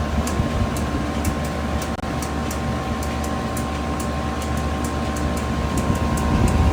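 Heat pump outdoor unit running steadily in heating mode with its coil iced up, ahead of a defrost cycle. Its compressor and fan give a low hum with a steady tone, and a light ticking comes about two or three times a second over it.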